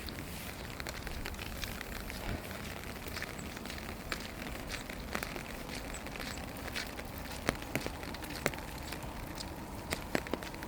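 Rain falling: a steady hiss of light rain with scattered heavier drops tapping close by, a few sharper ones in the second half.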